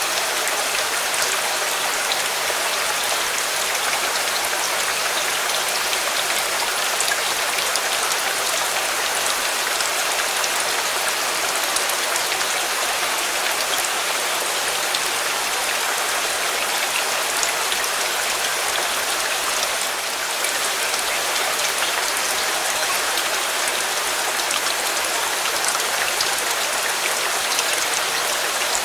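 Steady rain falling, an even hiss of many small drops that does not change.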